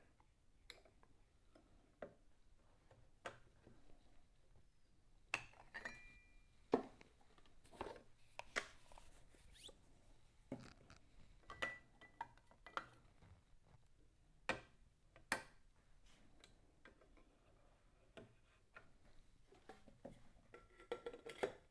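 Faint, scattered clicks and small knocks of an Edison Triumph cylinder phonograph being handled and its mechanism set over from 4-minute to 2-minute play, with a couple of brief faint squeaks; no record is playing.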